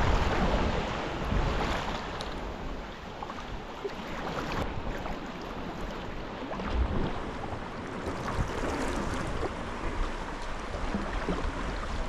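Water sloshing and splashing around a sea kayak being paddled, with wind rumbling on the microphone in uneven gusts.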